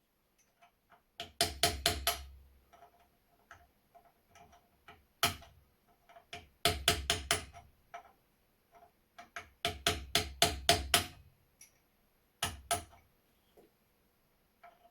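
Hammer striking a steel punch in quick bursts of sharp blows with a metallic ring, with lighter taps between, driving a seized, rusted screw through an old flintlock shotgun's lock parts.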